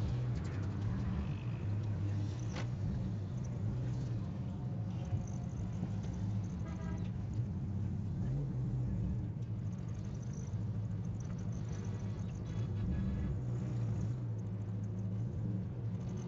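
Car engine idling steadily, a constant low hum heard from inside the stopped car.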